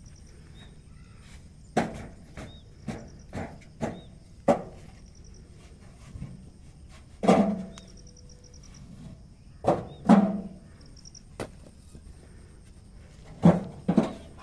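Bricks knocking and clinking against one another as they are handled and stacked, about a dozen irregular sharp knocks, a few ringing briefly. Crickets chirp faintly in the background.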